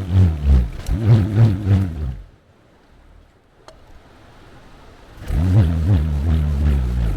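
Homemade bull roarer whirled on its cord, giving a low, buzzing drone whose pitch swells and dips two to three times a second. The drone dies away about two seconds in and starts again about five seconds in.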